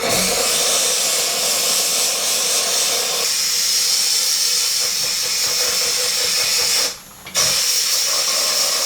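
Compressed air hissing steadily from an air-driven tool, cut off briefly about seven seconds in and then on again.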